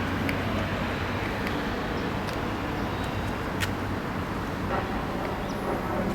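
Steady motor-vehicle noise: an even rumble with a low constant hum and a few faint scattered ticks.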